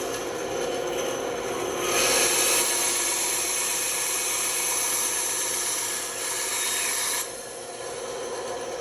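Band saw running and cutting through wood, the blade's rasping louder from about two seconds in, then dropping back to the saw running free near the end.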